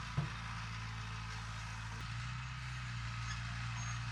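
Heavy diesel earthmoving machinery running steadily with a low drone. There is one short knock just after it begins.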